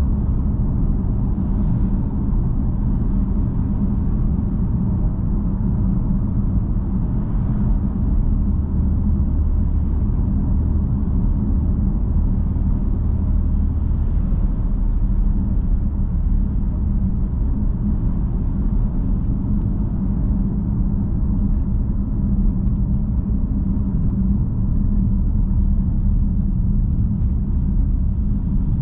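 BMW M3 F80's twin-turbo 3.0-litre inline-six engine and exhaust running at a steady cruise, with road noise, holding an even low drone without revving up or down.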